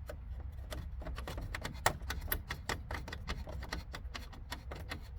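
Irregular light clicks and rattles of small parts being handled and worked loose, several a second, over a steady low hum.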